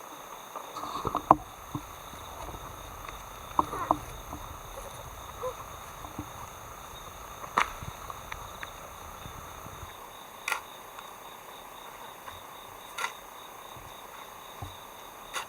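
Insects chirring steadily, with scattered knocks and clicks about every two to three seconds.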